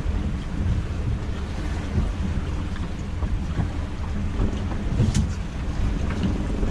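Strong wind buffeting the microphone on a small boat at sea: a steady low rumble with no clear single event, and a faint knock about five seconds in.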